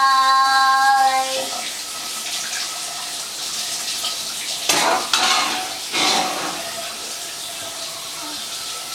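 Water running steadily in a bath or shower, with a child singing one held note at the start. There are a few brief louder bursts a little past the middle.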